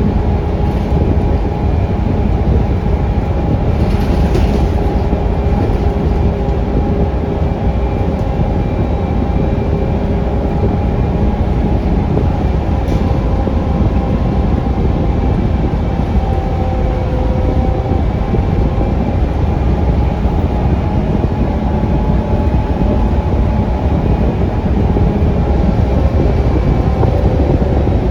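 Cabin noise of a Scania K360UA articulated bus on the move, with its Scania DC9 five-cylinder diesel running under a steady low rumble. A few faint whining tones drift slowly lower, and a short hiss comes about four seconds in.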